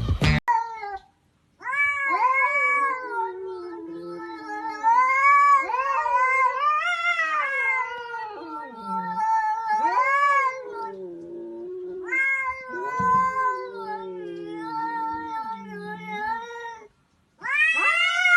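An animal's long, drawn-out, wavering yowls in three stretches, rising and falling in pitch, with short pauses between them.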